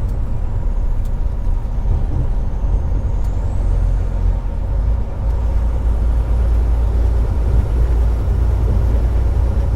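Semi-truck driving on the highway, heard from inside the cab: a steady, loud low rumble of engine and road noise.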